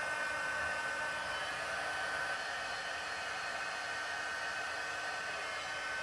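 Embossing heat gun running steadily, a blowing hiss with a thin high whine, as it melts embossing powder on a card.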